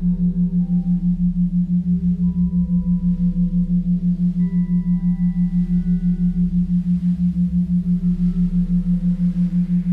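Ambient meditation music: a steady low hum pulsing about five times a second, with soft, scattered higher notes drifting above it.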